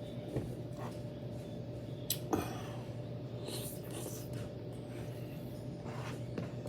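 Steady low room hum with a few small clicks and taps, the loudest a little after two seconds in.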